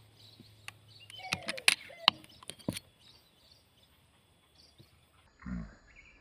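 Small birds chirping in short scattered calls, with several sharp ticks in the first half and only faint chirps afterwards.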